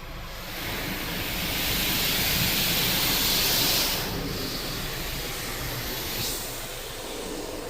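High-pressure side blaster jets of a WashTec SoftCare SE car wash spraying water against the side of the car, a loud hiss. It builds about half a second in, is loudest for a couple of seconds, then eases off.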